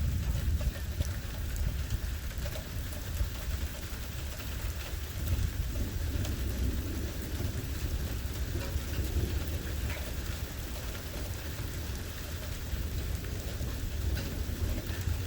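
Thunderstorm: steady rain falling, with a low rumble of thunder underneath and scattered ticks of drops.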